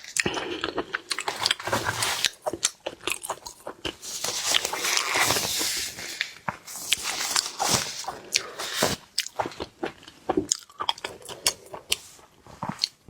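Close-miked eating of seafood: repeated bites and chewing, with many sharp crunchy clicks.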